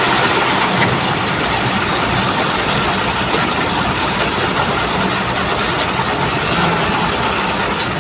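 A vehicle engine running steadily at idle or low revs, under a constant hiss of road and traffic noise.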